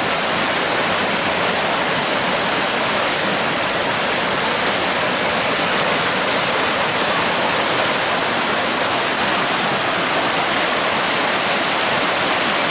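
Small spring-fed creek running high and fast after heavy rain: a steady, even rush of turbulent water.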